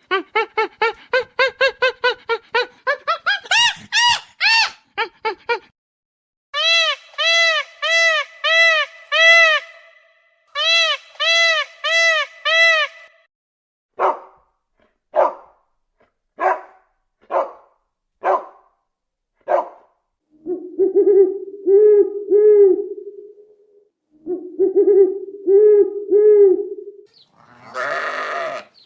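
A run of different animal calls, one kind after another: a quick series of rising calls, then evenly repeated arched notes, then single short calls about once a second, then lower pulsed calls, with a brief harsh burst near the end.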